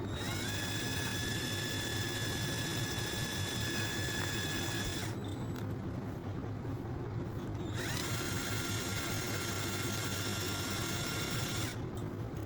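A small motor whirring in two runs of about five and four seconds, each rising in pitch as it spins up, then cutting off. A steady low hum runs underneath.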